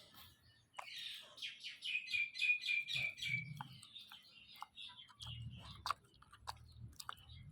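A rapid trill of high-pitched chirps, about six or seven a second, lasting about two and a half seconds, followed by scattered clicks and soft low thumps.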